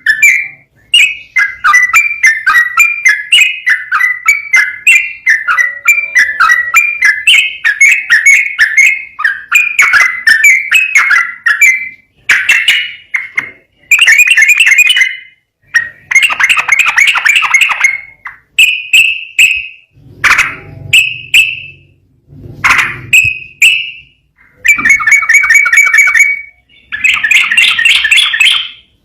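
Yellow-vented bulbul singing in a fast, unbroken run of chattering notes for about the first twelve seconds, then in shorter bursts of a second or two with brief pauses between them.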